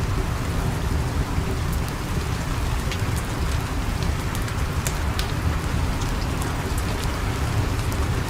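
Steady rain, with a deep low rumble underneath and scattered sharp crackles on top.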